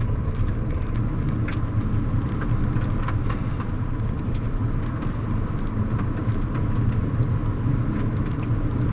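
A moving car's steady road and engine rumble, with scattered faint ticks.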